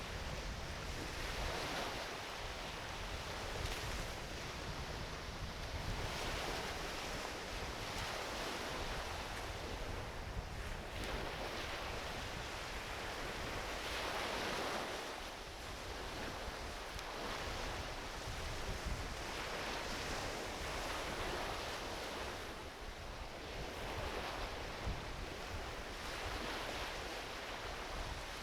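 Small ocean waves washing onto a beach, swelling and fading every few seconds, with low wind rumble on the microphone. A driftwood campfire gives a few sharp snaps, the loudest near 11 and 19 seconds in.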